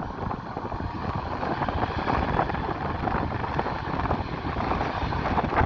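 Jet airliner taking off at full thrust: a steady, rushing engine noise with a crackling edge that swells a little in the middle, with wind buffeting the microphone.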